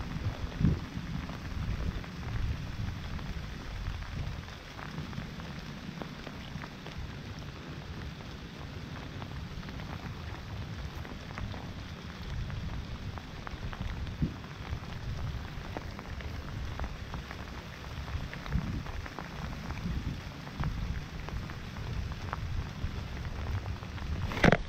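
Steady rain falling, with many scattered sharp drop ticks over a low rumble.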